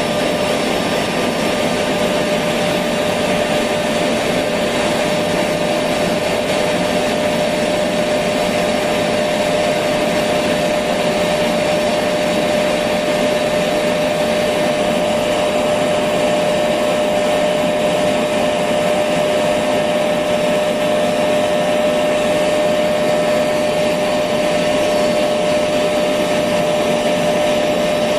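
Electric vacuum cleaner running steadily, a constant motor drone with a steady whine and airflow hiss, played as white noise to lull a baby to sleep.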